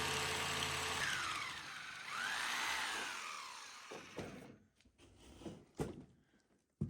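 Old Hilti hammer drill running as it bores into concrete. The noise drops about a second in, comes back, then fades out around four seconds in. A few sharp knocks follow near the end.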